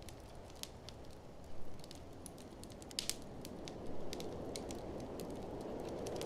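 Wood fire crackling in a fireplace, with scattered sharp pops, one of the loudest about halfway through, over the steady low rush of blizzard wind that swells toward the end.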